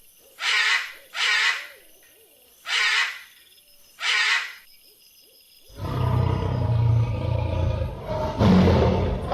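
Four short, breathy bursts of noise, each about half a second long, then from about six seconds in a large animal's deep, rumbling roar that carries on.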